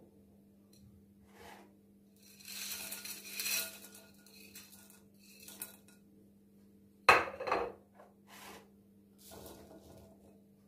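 Dishes and cutlery being handled: a run of clinks and scraping about two seconds in, then the loudest pair of sharp knocks about seven seconds in, with smaller clatters after, over a faint steady hum.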